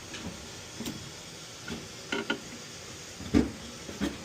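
Scattered metal clinks and knocks as a furnace's gas manifold is worked free and pulled down out of the burner compartment. The loudest knock comes about three and a half seconds in.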